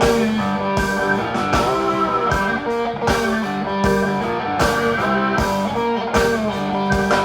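Live blues-funk band playing an instrumental passage: electric guitar over a steady drum beat, about one hit every three-quarters of a second.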